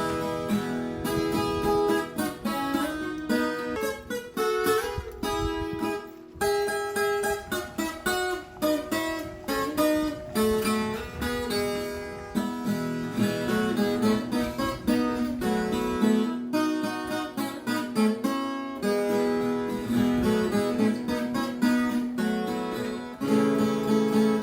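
Music: a strummed and plucked acoustic guitar playing a steady, rhythmic tune.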